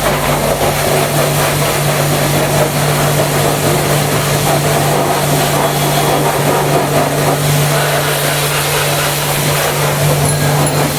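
Pressure washer running, its motor giving a steady hum under the hiss of the water jet as foam is rinsed off.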